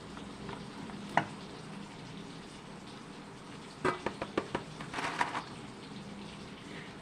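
Kitchen utensils and dishes being handled during food preparation: a single sharp knock about a second in, then a quick run of clinks and clatters around four seconds, followed by a short scrape, over a steady faint hum.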